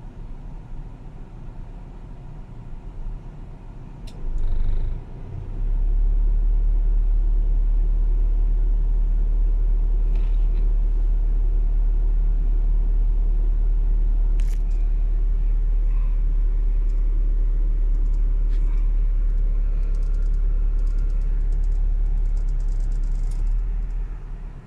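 Car engine idling. About five seconds in, a loud, steady, deep rumble comes in and holds until just before the end.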